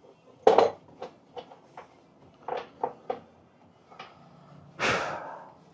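Handling noises from searching among tools and parts for small bolts: a sharp knock, then a string of light clicks and clinks, and a longer scraping rustle near the end.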